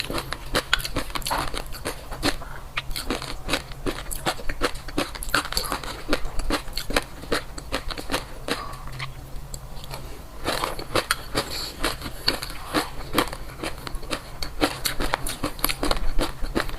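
Close-miked chewing and crunching of food, a dense run of crisp crackles and mouth clicks, with a brief pause a little past halfway.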